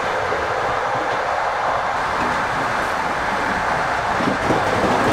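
Steady running noise of a moving Russian long-distance passenger train, heard in the gangway between two carriages, growing a little louder near the end.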